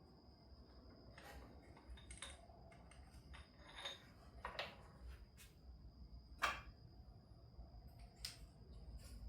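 Faint, scattered metal clicks and knocks of hand tools being worked on a car part, the sharpest about six and a half seconds in, over a faint steady high-pitched tone.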